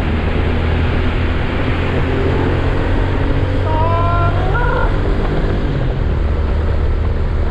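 Honda Super Cub's single-cylinder four-stroke engine running steadily at cruising speed inside a long road tunnel, under a constant rush of road and wind noise.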